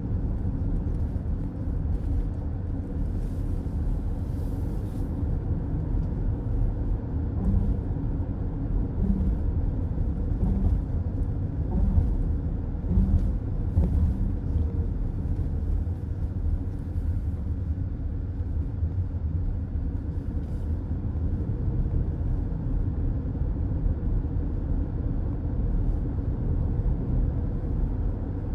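Steady low road rumble of a moving car, heard from inside the cabin: tyre and engine noise at a constant cruising speed, with a few faint ticks.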